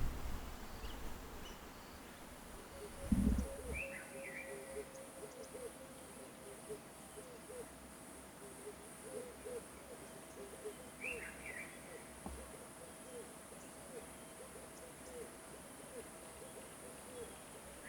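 A wild bird calls a short phrase of high notes falling in pitch, three times about seven seconds apart. Under it runs a steady high insect buzz and a series of low repeated calls, two or three a second. There is a single low thump about three seconds in.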